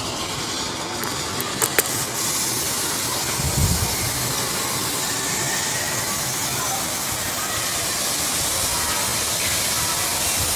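Steady rushing hiss of flowing river water, with a few sharp clicks just under two seconds in.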